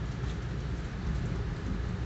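Steady low rumbling of a commuter train running at speed between stations, wheels rolling on the track.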